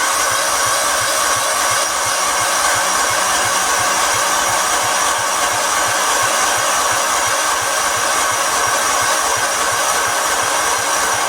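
A small motor running loudly and steadily, with a fast, even low pulse under a hissing drone.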